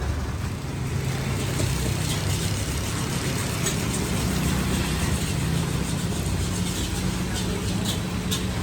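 Motor vehicle engine running steadily, a low even hum under a light hiss, with scattered small clicks.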